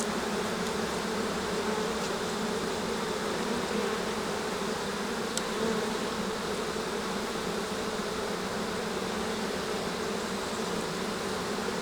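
A honey bee colony buzzing around an open hive, a steady, even hum from many wings. The bees are venting (fanning), which the beekeeper takes as a sign that the queen is present, though he cannot be sure.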